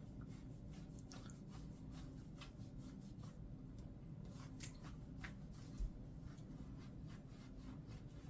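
Faint scratchy rubbing and brushing as hands work over a wet kitten's fur, in short irregular strokes over a low steady hum, with one brief low bump about two-thirds of the way through.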